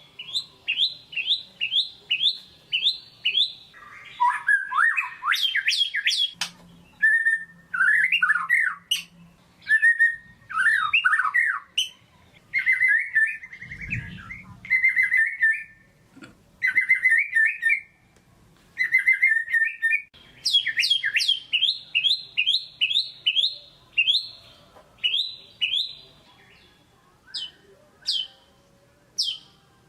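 White-rumped shama singing loudly: runs of quick, sharply falling whistled notes at the start and again after about 20 seconds, with varied warbled phrases in between.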